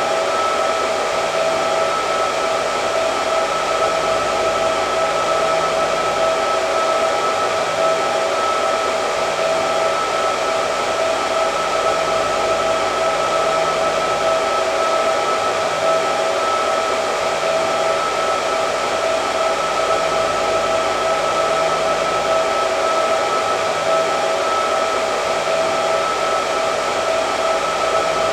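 Electric hair dryer running steadily: a constant rush of air with a steady whine from the fan motor.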